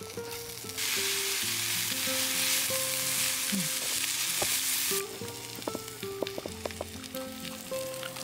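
Pork belly and kimchi sizzling in a pan over a camp stove. The sizzle is loud for about four seconds, then drops to a quieter sizzle with a few light clicks of chopsticks against the pan.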